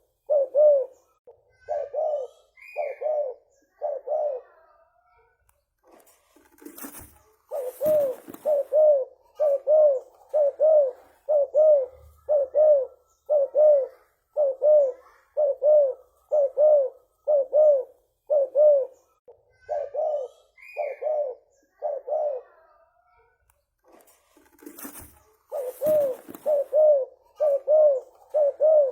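Spotted dove (tekukur) cooing loudly in a long rapid series of short coos, about two a second. The series breaks twice, each time with a brief rustle.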